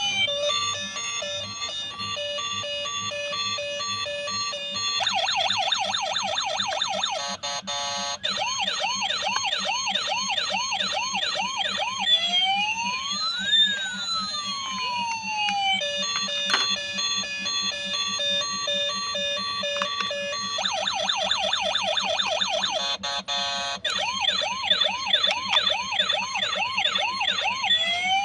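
Toy police car's electronic siren sound module cycling through siren patterns: a stepped tone, a fast warble, quick rising whoops and a slow rise-and-fall wail. The sequence starts over about halfway through.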